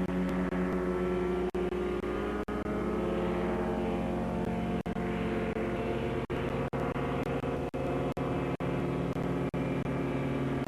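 Rotax 447 two-stroke engine of a flying-wing ultralight droning steadily in flight, with a slow shift in its tone. The sound is broken by repeated brief dropouts in the recording.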